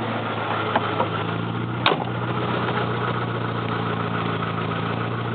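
Car engine idling steadily, with one short sharp click about two seconds in.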